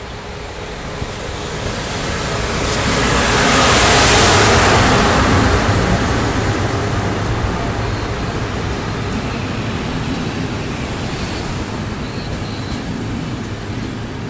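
An electric train passing at speed: a rush of noise that swells to its loudest about four seconds in, then a steady rumble as the rest of the train goes by.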